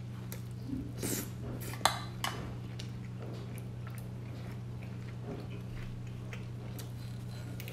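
Scattered clinks and scrapes of a utensil against a dish, the sharpest click about two seconds in, over a steady low hum.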